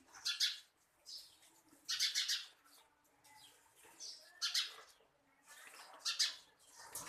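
Birds calling: short high-pitched chirping calls in separate groups every second or so, with brief quiet gaps between them.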